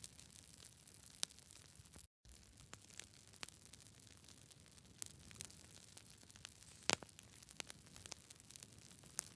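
Campfire crackling: burning wood snapping and popping in irregular sharp cracks over a faint low rumble, the loudest pop about seven seconds in. The sound cuts out completely for a split second about two seconds in.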